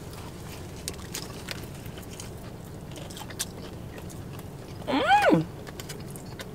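Biting into and chewing a crispy KFC fried chicken sandwich on glazed-donut buns, with small crunches and mouth clicks scattered throughout. About five seconds in, one eater gives a short hum that rises and falls in pitch.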